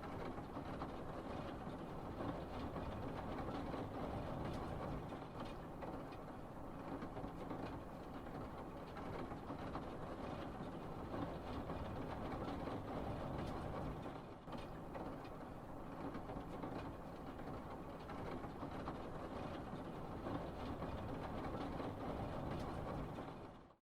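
Steady noise of a car driving through heavy rain, with rain and road noise heard from inside the cabin. It cuts off suddenly at the end.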